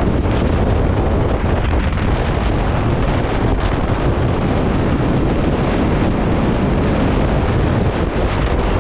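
Loud, steady rushing noise, heaviest in the low end, with wind buffeting the microphone.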